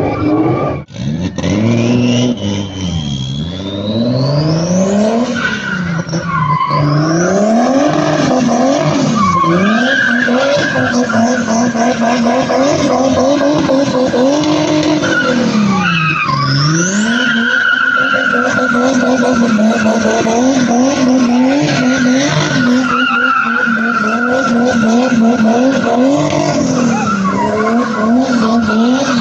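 Car engine revving hard and repeatedly, its pitch swinging up and down, with quick rapid rev swings near the end, over the continuous squeal of spinning tyres: a car drifting.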